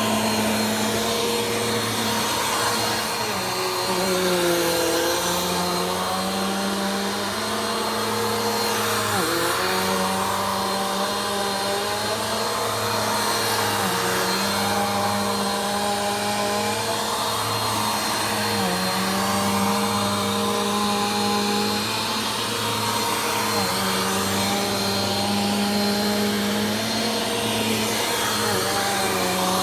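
Vacuum cleaner running continuously while being pushed slowly over the floor. Its motor tone dips and recovers about every five seconds as the load on it changes.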